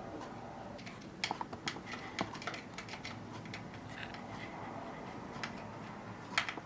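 Scattered light clicks and taps of a plastic toy remote control being handled, its battery compartment closed up after AA batteries are fitted. The clicks come in a cluster between about one and two and a half seconds in, and twice more near the end.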